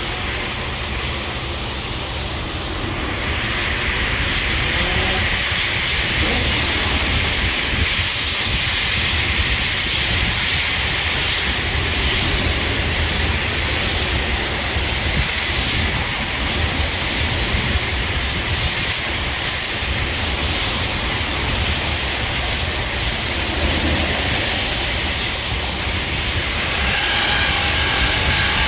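High-pressure water jets of a touchless car wash spraying against a vehicle, a steady hiss that gets louder about three seconds in. A machine whine joins near the end.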